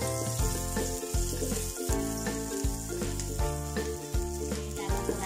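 Sliced garlic and red onion sizzling in hot oil in a wok, stirred with a wooden spatula, with background music underneath.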